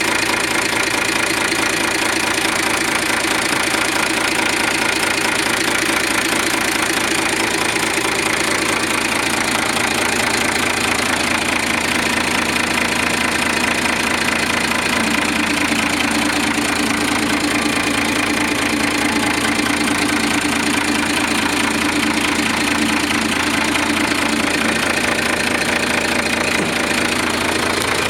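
Diesel engine of a 1995 Kia Rhino 5-ton cargo truck running steadily at idle. A steady hum joins in about halfway through and stops a few seconds before the end.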